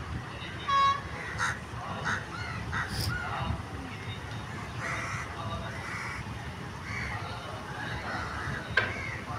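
Birds calling over and over, short calls that rise and fall in pitch, over a steady low street background.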